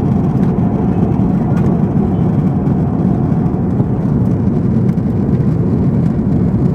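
Steady, even rumble of airliner cabin noise aboard an Airbus A340-600 in flight, from airflow and engines. The sound is concentrated in the low range.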